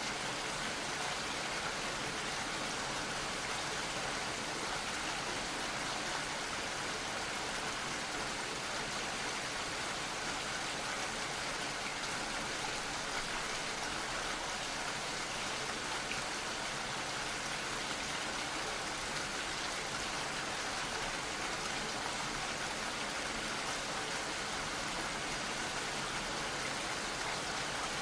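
Gentle rain falling steadily, an even hiss of drops.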